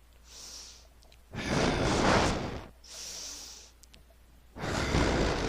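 A person breathing in and then letting out a long, loud, breathy sigh, twice over.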